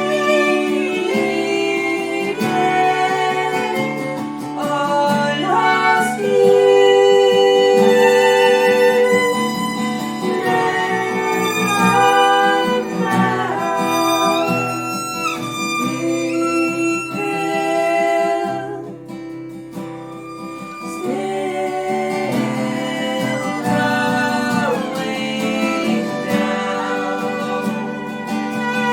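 Slow live music on violin and acoustic guitar, the violin holding long notes and sliding between some of them over the strummed guitar.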